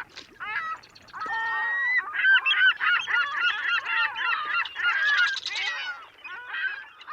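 A flock of birds calling: many short overlapping calls that slide up and down in pitch, sparse at first, crowding together after about a second and thinning near the end.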